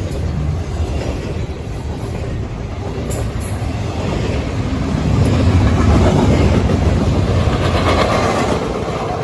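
Norfolk Southern intermodal freight train rolling past, a steady rumble of steel wheels on the rails that grows louder around the middle and eases off near the end.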